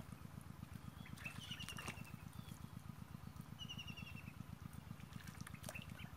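A small bird's short, rapid trill, about a second and a half in and again near four seconds, over a steady low rumble. Faint splashes of shallow water come and go as someone wades and gropes along the bottom.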